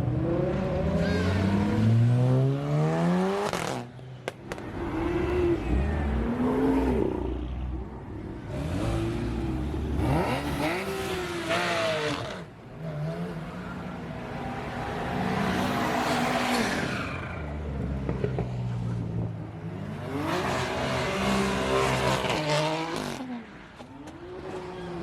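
Performance car engines revving hard as the cars accelerate away one after another. The pitch climbs steeply at the start, then comes a run of quick rises and falls as cars rev and pull past.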